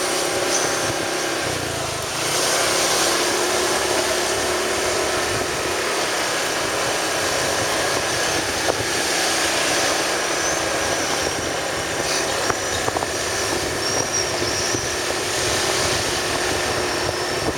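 Steady running of a moving road vehicle's engine, mixed with wind and road noise while travelling.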